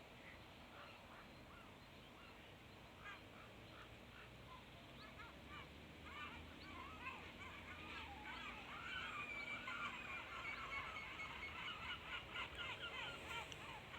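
A large flock of birds calling high overhead: many short overlapping calls, faint at first and growing denser and louder about halfway through.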